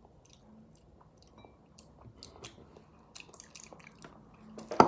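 Faint mouth sounds of tasting mayonnaise: scattered small clicks, smacks and chewing, with a louder noise near the end.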